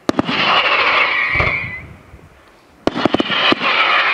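Daytime fireworks going off: a sharp bang, then a loud whistling hiss lasting about a second and a half. About three seconds in, a quick cluster of bangs is followed by another whistling hiss.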